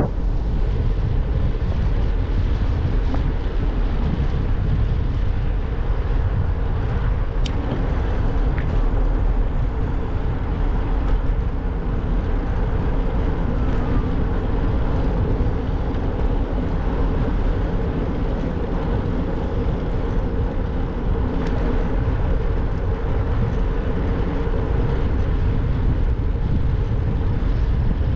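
Steady wind rush and rumble on the microphone with a faint even hum, the sound of riding a bicycle at a steady pace.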